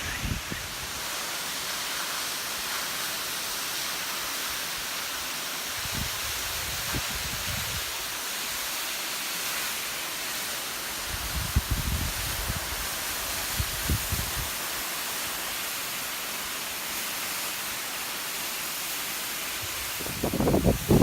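Higashi-Shiiya Falls, a tall waterfall, rushing as a steady, even hiss. A few brief low rumbles break in around the middle.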